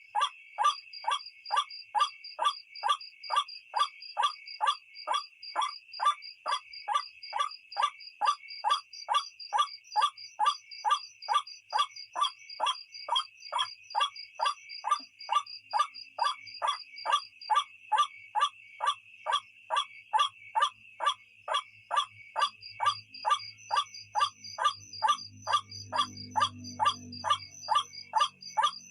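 White-breasted waterhen (ruak-ruak) call used as a night lure: short croaking notes repeated evenly, a little over twice a second, over a steady high insect-like trill.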